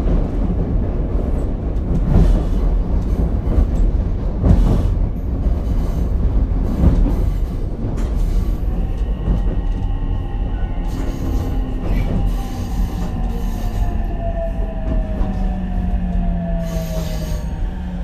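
Ichibata Electric Railway car 7001 running, heard from inside: wheels rumbling on the rail with several knocks in the first half. From about halfway, steady whining tones from the drive slowly fall in pitch as the car slows toward a stop.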